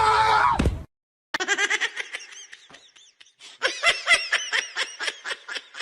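A held high-pitched note drops away and cuts off within the first second. After a brief gap, a person laughs hard in quick, high-pitched repeated pulses, several a second.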